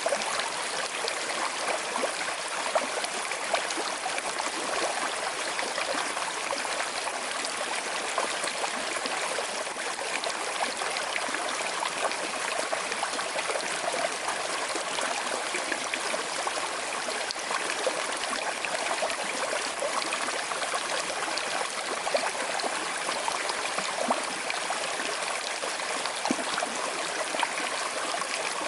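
Small river flowing over stones with a slight current, a steady rush of water with small gurgles and trickles.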